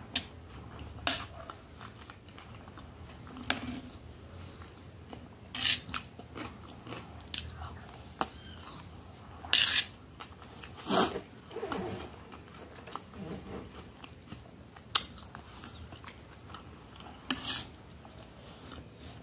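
Close-up chewing and mouth sounds of a person eating, broken by sharp clicks every few seconds from a spoon scraping and tapping a metal plate.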